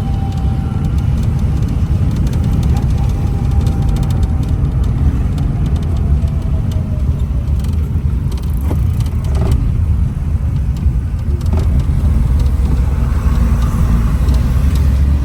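Steady low rumble of road vehicles, with faint passing tones.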